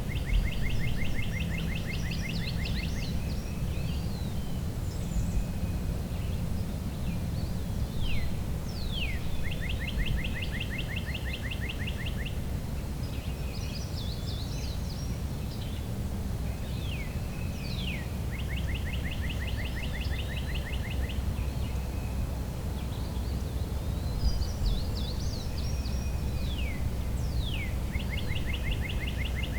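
A songbird repeating one song about every nine seconds: a falling whistle, then a fast even trill lasting about two seconds, then a few higher notes. A steady low background rumble runs underneath.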